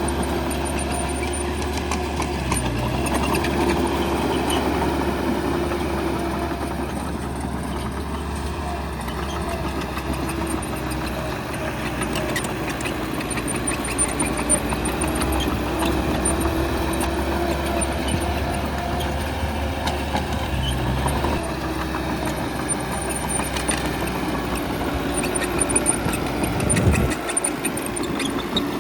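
Bulldozer's diesel engine working, its pitch slowly rising and falling with the load, with scattered metallic clanks that are loudest near the end.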